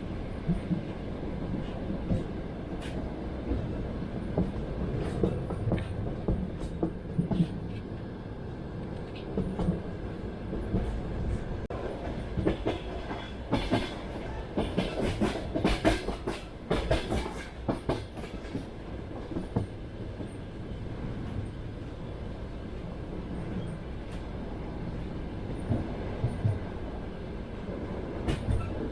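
Passenger train running on the rails: a steady rumble of wheels with irregular clicks of wheel clatter. In the middle there is a denser run of sharp, loud clatter and knocks.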